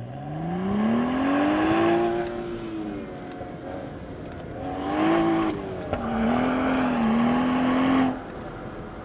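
BMW 135i's turbocharged inline-six accelerating hard off the start of an autocross run: a rising engine note over the first two seconds, then easing off and pulling again through the course, with a held, wavering note near the end before lifting.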